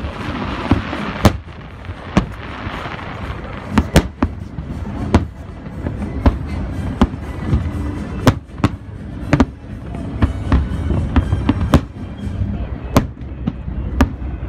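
Aerial fireworks shells bursting in quick succession: a dozen or more sharp booms over a continuous low rumble, with a stretch of fine crackling near the start.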